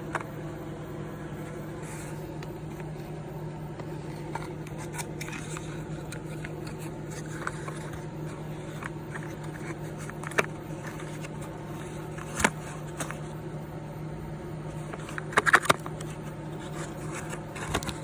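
Vending machine humming steadily, with scattered clicks and knocks and a loud cluster of clacks about fifteen seconds in.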